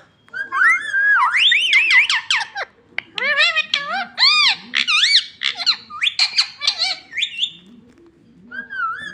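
Pet parrot calling: a run of high whistled squawks that swoop rapidly up and down in pitch, in bursts with short pauses about three seconds in and near the end.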